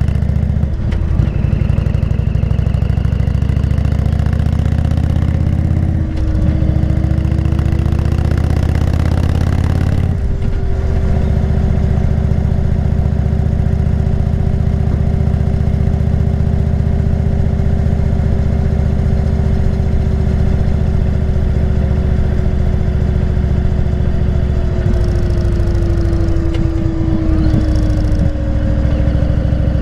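Indian motorcycle's V-twin engine running on the move, heard from on the bike. The engine note rises for a few seconds, breaks briefly about ten seconds in as it shifts gear, holds steady, then drops in pitch near the end as the rider eases off.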